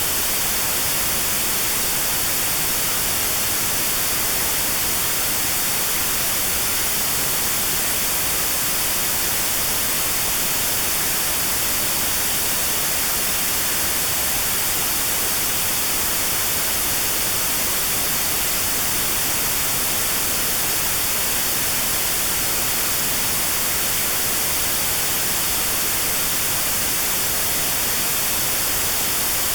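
Steady synthetic white noise with a narrow band around 4 kHz notched out: notched sound therapy aimed at 4 kHz tinnitus.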